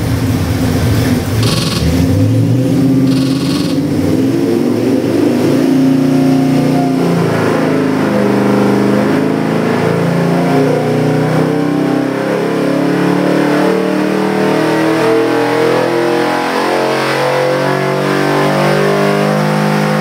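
Ford 302 small-block V8 with FiTech fuel injection making a loaded pull on an engine dyno, its note rising steadily from idle at about 650 rpm to about 6,200 rpm.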